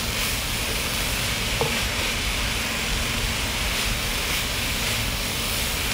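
Minced chicken breast and shrimp sizzling steadily in a hot pan while a wooden spatula stirs and scrapes through them.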